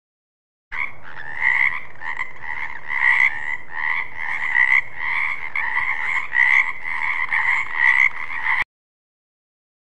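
Frogs croaking in a dense, continuous chorus, with louder calls pulsing about twice a second. The chorus starts about a second in and cuts off abruptly near the end.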